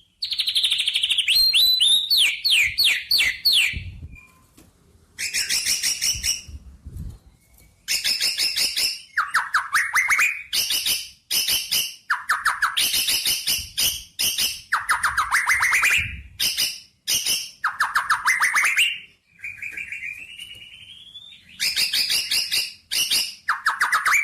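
A songbird singing in repeated phrases: bursts of rapid high chirps alternating with quick trills that sweep upward in pitch, with short pauses between phrases.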